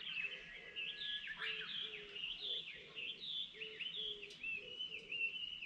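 Wild birds singing: a steady run of quick rising and falling chirps overlapping one another, with a short low note repeated about twice a second underneath.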